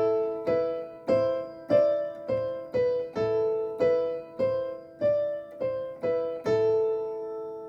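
Piano played alone: a short pattern of single notes that steps up and back down, struck about twice a second over held lower notes, ending on a long chord that fades. It is a simple exercise pattern, with each melody note accompanied by a sustained note.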